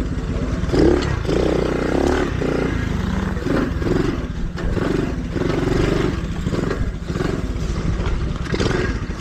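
Mini dirt bike engine running along a trail, its pitch rising and falling in short surges of throttle, with frequent knocks and rattles.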